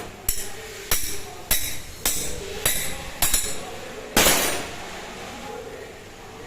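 Hammer tapping on metal: six sharp strikes about every 0.6 s with a short ringing clink, then one heavier strike about four seconds in.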